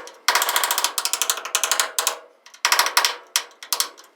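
Rapid metallic clicking and rattling in bursts, one about two seconds long and a shorter one about a second long, as a seized dome light switch is worked loose.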